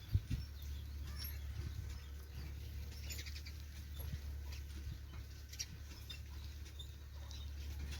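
Faint bird chirps and scattered light clicks over a low steady rumble.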